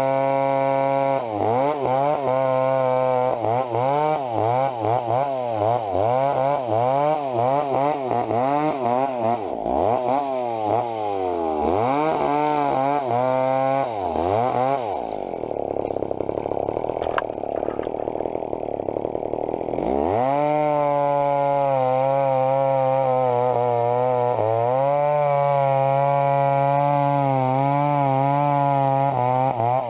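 Two-stroke chainsaw running hard, its engine speed swinging up and down over and over. In the middle it drops low and rough for about five seconds, bogging under load in the wood, then comes back up to a steady high speed.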